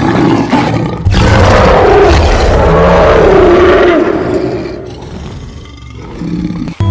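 A big cat's roar, one long, rough call that starts about a second in and fades away over the following seconds. Background music comes back near the end.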